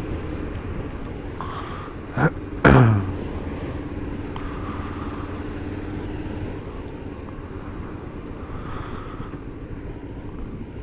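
Kawasaki GPZ500's parallel-twin engine running steadily at low revs while riding slowly through town, its hum easing about six and a half seconds in. Two short, loud sounds break in about two and a half seconds in.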